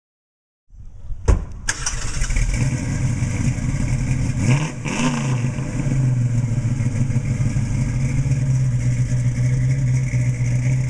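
Mustang Mach 1's modified 351 Cleveland V8 starting up about a second in, blipped once briefly about four seconds in, then idling steadily.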